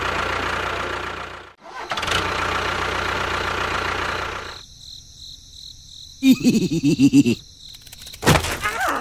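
An engine-like motor running steadily. It drops out briefly about one and a half seconds in, runs again, then stops about four and a half seconds in. Short wavering voice-like sounds and a sharp knock follow near the end.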